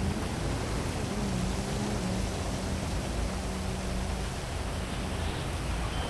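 Heavy rain falling steadily over a city, with the low hum of vehicle traffic underneath.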